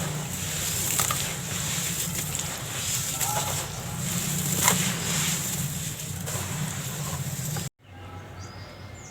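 Dried sand-cement crumbling and crunching: a gritty crackle with scattered sharp snaps. It cuts off abruptly near the end and resumes more quietly.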